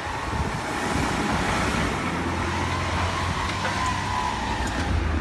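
Nagano Electric Railway local electric train moving away past a level crossing: a faint steady whine slowly falling in pitch. A low road-vehicle engine hum grows stronger from about halfway through.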